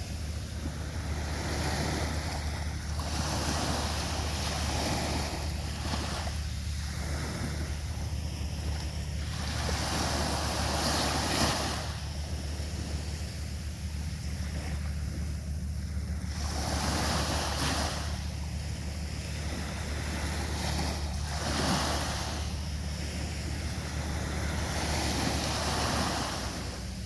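Sea waves breaking on the shore, the surf swelling and falling back every few seconds, over a steady low rumble of wind on the microphone.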